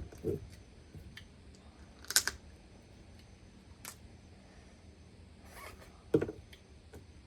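Mud crab being eaten: scattered crunches and clicks of shell being cracked and picked. The loudest is a sharp crackle about two seconds in, with a duller knock about six seconds in.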